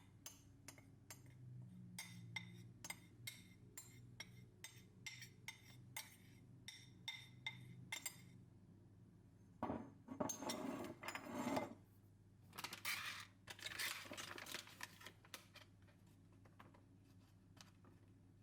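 Light clinks of utensils against dishes or glass, a couple to the second for about eight seconds, then two longer stretches of scraping or rustling noise.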